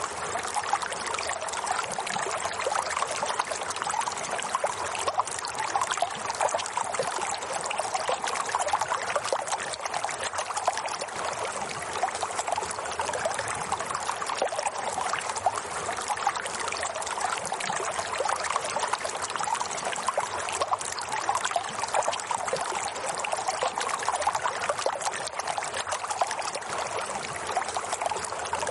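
Steady running water, a trickling, splashing flow that goes on evenly without pauses.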